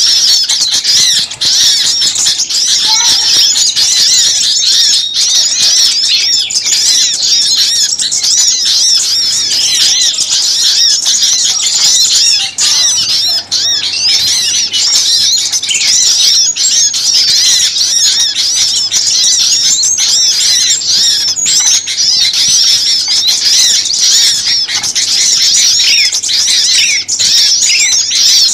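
A dense chorus of many small songbirds chirping and calling at once, high-pitched quick notes rising and falling over one another without a break: a noisy bird-lure recording of agitated small birds.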